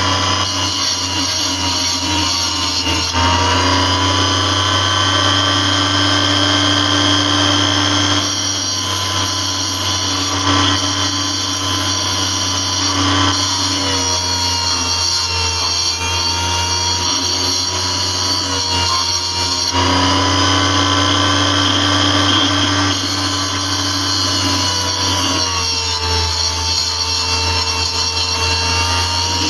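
Power tool motor whining steadily as it cuts into a stone, its pitch dipping briefly several times as the blade is pressed in.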